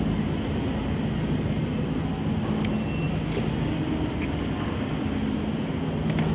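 Steady low rumble of road traffic with vehicle engines running.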